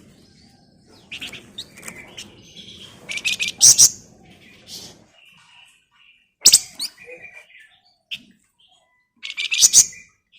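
A flamboyan songbird singing in quick bursts of high, rattling chatter. The bursts are several seconds apart, the loudest coming about a third of the way in, in the middle and near the end.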